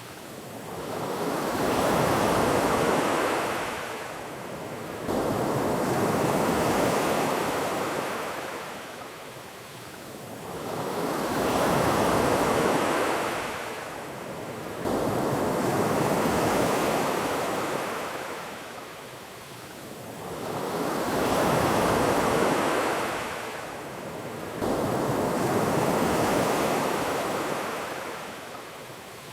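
Ocean waves breaking and washing up on a beach, the surf swelling and fading in slow, repeating surges every few seconds.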